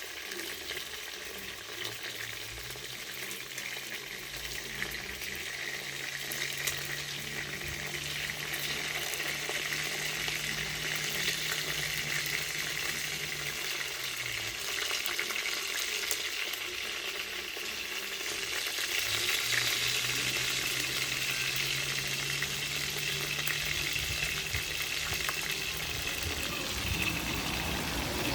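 Pieces of chicken frying in hot oil in a pot: a steady sizzle that grows gradually louder, with a few light clicks. A low hum comes in twice underneath.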